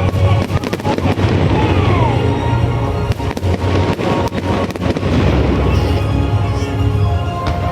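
Fireworks bursting in a rapid, irregular run of bangs and crackles, over loud music with a deep bass.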